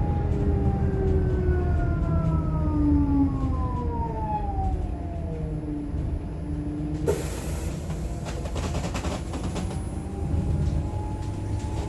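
Electric traction motor of a Scania K310IB bus converted to electric by Eletra, whining in several falling tones as the bus slows, over a low rumble. About seven seconds in a sudden hiss breaks in with a run of clicks, and near the end the whine rises again.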